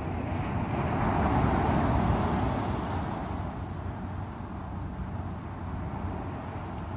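Strong sea waves breaking: the surf swells into a loud rush about a second in, peaks around two seconds, then eases back to a steady wash.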